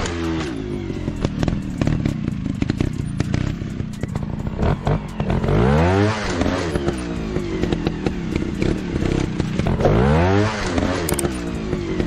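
Dirt-bike engine running, revving up and dropping back twice, around the middle and near the end, with clattering and crackling knocks throughout.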